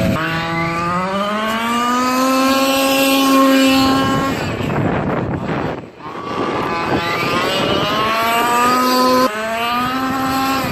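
Small two-stroke gasoline engine of a 1/5-scale Losi monster truck, revving up and held at high revs for a few seconds, then off the throttle about four seconds in. It revs back up from about seven seconds and drops a step just after nine seconds.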